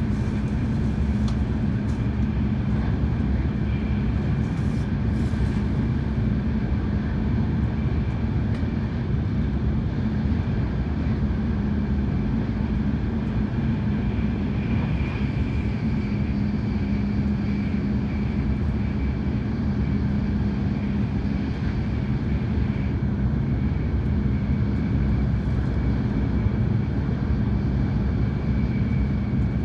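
Hikari Shinkansen bullet train running at speed, heard inside the carriage: a steady low rumble and rush of running noise, with a faint steady whine above it.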